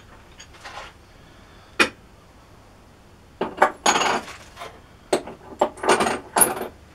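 Steel tools and workpieces clinking and knocking as they are handled, with a ringing edge to some strikes. A single sharp clink comes about two seconds in, and a run of clinks and scrapes fills the second half.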